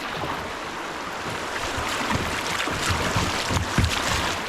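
Creek water rushing and splashing around a kayak running a fast riffle, with wind rumble on the microphone. The rush grows louder about halfway through, with low knocks in it.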